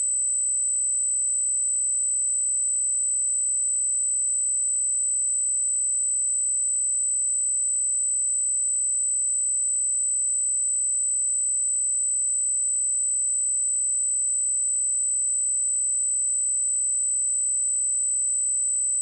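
A steady, high-pitched 8037 Hz sine-wave test tone, a single pure tone held at constant level.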